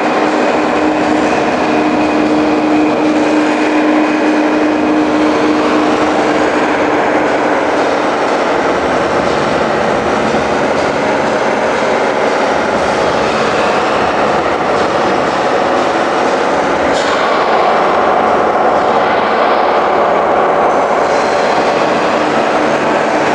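A vehicle engine running steadily and loudly without a break, its tone shifting about two-thirds of the way through.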